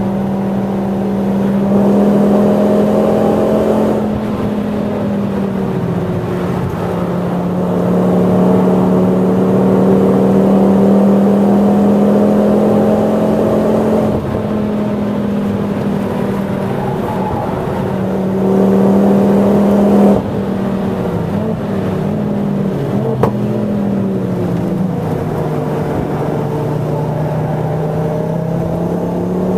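Tuned Ford Focus ST's turbocharged five-cylinder engine heard inside the cabin, pulling hard under full throttle in several stretches. Each pull ends in a sudden drop as the driver lifts off, about 4, 14 and 20 seconds in, and the engine note sinks lower before climbing again near the end.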